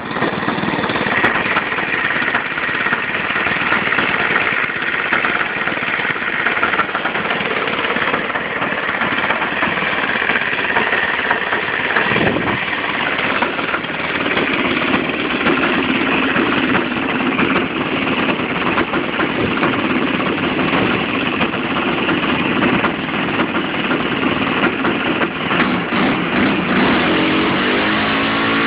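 O.S. FS-120 four-stroke glow engine running in a Seagull Edge 540 model aeroplane during an engine test. It runs steadily, with a brief change in pitch about twelve seconds in and the pitch shifting again near the end.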